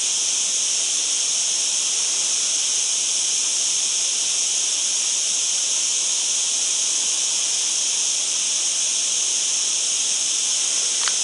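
Dense insect chorus: a steady, high-pitched shrill drone that never lets up, with a brief short call just before the end.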